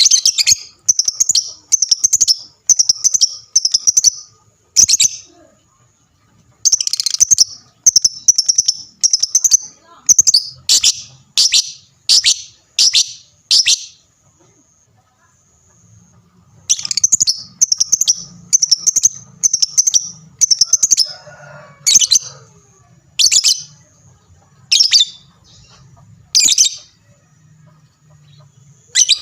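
Lovebird in full song (gacor): a rapid series of sharp, shrill chirps, about two a second, in runs broken by short pauses around 5 and 14 seconds in.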